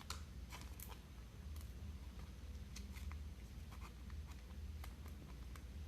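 Faint rustling and scattered light clicks of trading cards being handled and pushed into plastic holders, over a low steady hum.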